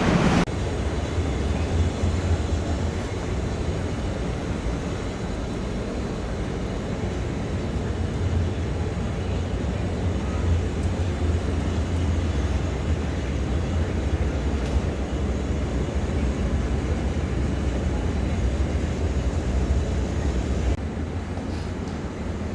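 Steady low drone of a large car ferry's engines and hull heard on board, an even rumble with a wash of noise above it.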